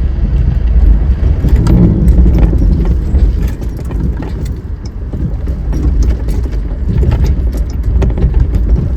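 A vehicle driving along a dirt trail: a steady low rumble from tyres and engine, with many small clicks and rattles.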